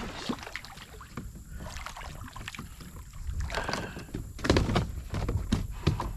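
Handling noise in a fishing kayak: scattered knocks, bumps and rustling as a bass is landed and handled, busiest about four and a half seconds in.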